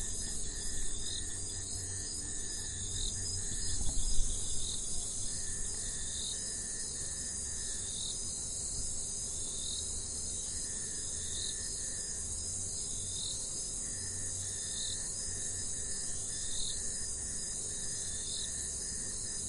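Jungle ambience dominated by an insect chorus: a continuous high-pitched buzzing trill and a short call repeating about once a second. A lower steady drone comes and goes in stretches of a few seconds, over a low background rumble.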